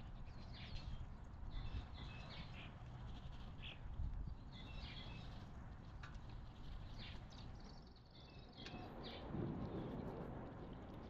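Small wild birds chirping and calling in short, high notes every second or so, over a steady low background rumble.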